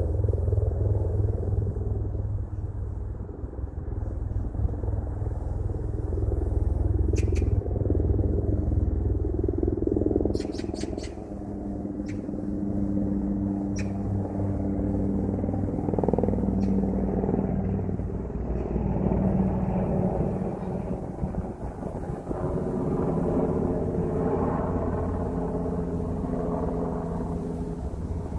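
A steady low rumble with a faint engine-like hum over it, broken by a few short sharp ticks in the first half.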